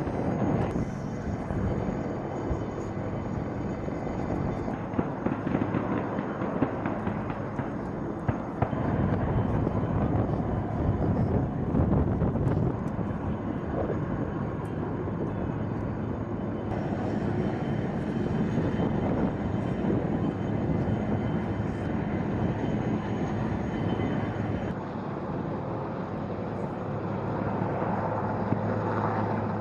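Heavy military engines running steadily, with a few sharp cracks in the first half. The sound shifts abruptly several times as it moves from one engine to another.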